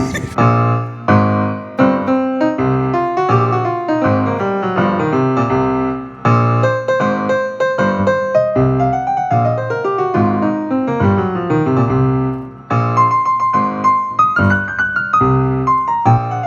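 Background piano music: a melody over chords and rising and falling runs of notes.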